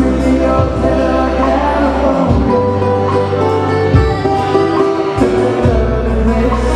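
A Hawaiian band playing live, with singing over plucked strings. Held bass notes change every second or two.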